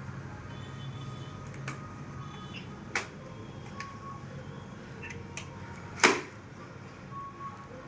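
A few sharp clicks and one much louder knock about six seconds in, over a low steady hum: handling noises from a motorcycle helmet being unboxed.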